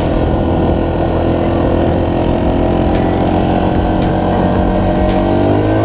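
Dirt bike engine running steadily while being ridden at an even speed.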